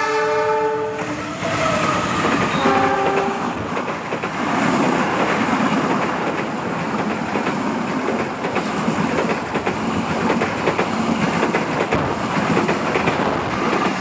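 KAI Argo Parahyangan passenger train passing at speed behind a diesel locomotive. The locomotive's horn sounds a long chord that ends about a second in, followed by two short toots. Then comes the loud, steady rush and clatter of the coaches' wheels on the rails as they go close by.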